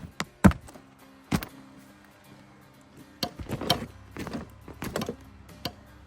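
A series of sharp knocks and clatters, the loudest about half a second in and a quick cluster a little past the middle, over soft steady background music.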